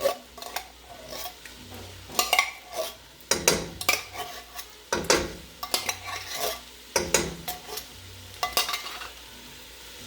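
A spoon scraping and clanking against a cooking pot in irregular strokes as vegetables, chicken and cream of chicken soup are stirred together, with a low sizzle from the pot underneath. The strokes stop about nine seconds in.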